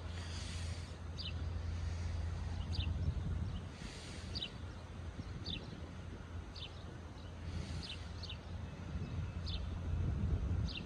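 A small bird chirping again and again, short falling notes about once every second or so, over a low steady rumble.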